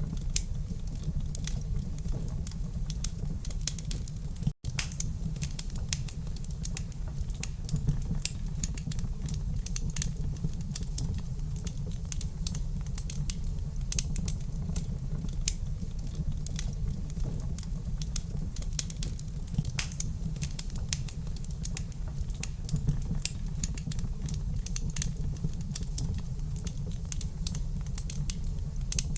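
Wood fire crackling in a fireplace: a dense, irregular stream of small pops and snaps over a steady low rumble. The sound cuts out for an instant about four and a half seconds in.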